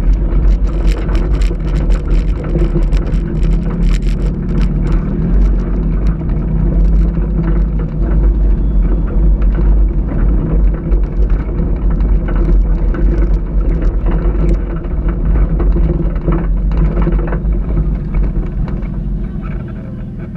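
Ford Taurus engine running hard over a rough dirt tough-truck course, with many sharp knocks and rattles from the car bouncing over the ground, thickest in the first few seconds. The sound eases off near the end.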